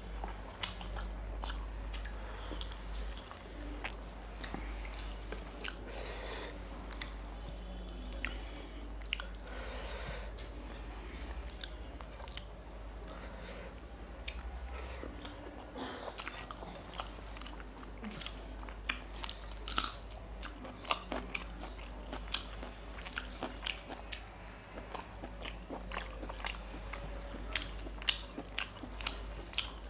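Close-miked chewing and wet mouth clicks and smacks of someone eating rice with mutton liver curry by hand, with many short sharp clicks throughout and a steady low hum underneath.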